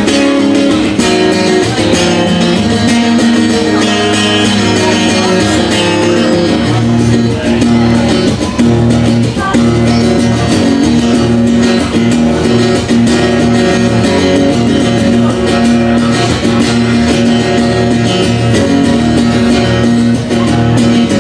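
Guitar music played live without singing, steady and loud, with lower notes filling in about a third of the way through.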